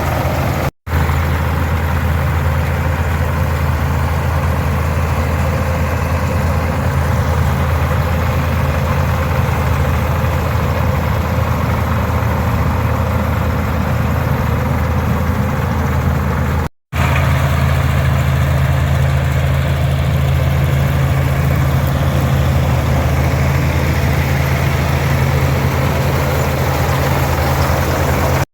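International 460 tractor's six-cylinder 282 diesel engine running steadily, powering the International 82 pull-type combine. The sound cuts out briefly twice, about a second in and a little past halfway.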